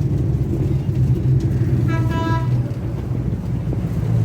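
Tourist road train's engine running steadily, with a short horn toot, briefly broken, about two seconds in.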